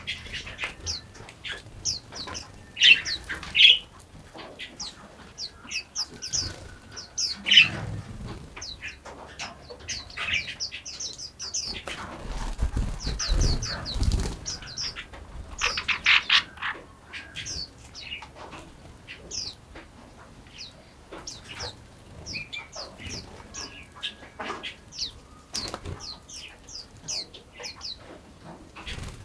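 Several small songbirds chirping and singing, with many quick high notes overlapping and louder calls about three and seven seconds in. A low rumble lasts about two seconds in the middle.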